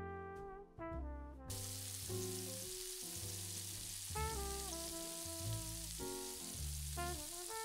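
Food sizzling in hot oil in a frying pan, a dense hiss that starts suddenly about a second and a half in. Background music plays throughout.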